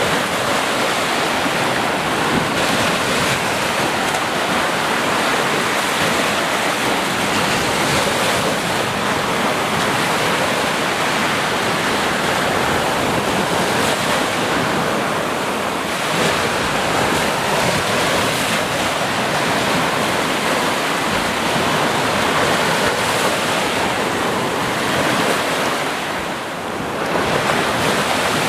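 Ocean surf: waves breaking and washing in a continuous rushing hiss that swells and eases, dipping briefly near the end, with wind on the microphone.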